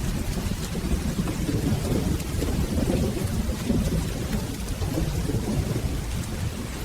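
Steady rain over a continuous low rumble of rolling thunder.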